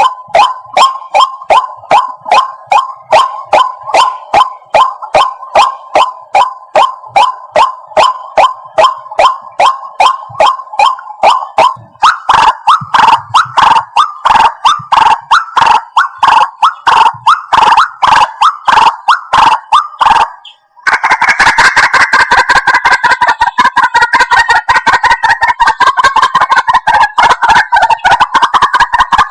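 White-breasted waterhen calls, a lure recording for bird trapping: loud harsh notes repeated rapidly, about three a second. After a brief break about 21 s in, the calls come faster and denser.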